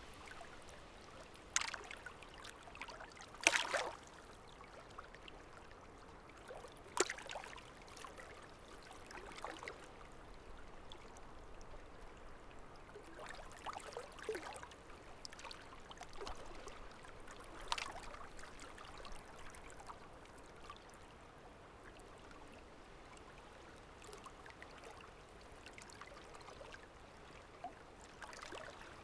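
Water splashing and trickling: a faint steady rush with irregular small splashes every few seconds, the loudest a few seconds in.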